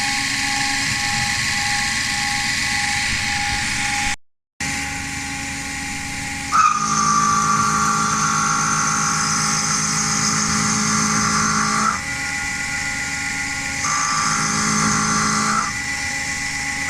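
Home-built CNC milling machine running: a steady spindle and motor whine, with a louder whine and low hum that come and go in stretches of a few seconds as the machine works. The sound cuts out completely for a moment about four seconds in.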